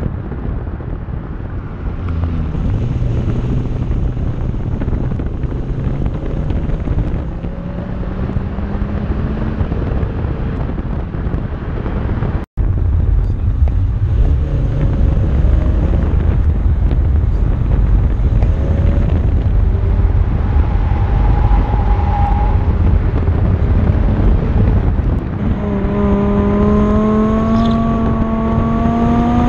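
BMW E60 M5's V10 engine through a Hamann exhaust, accelerating with its pitch rising, over heavy wind and road noise. The sound drops out for an instant about twelve seconds in, and a long rising pull near the end is the loudest part.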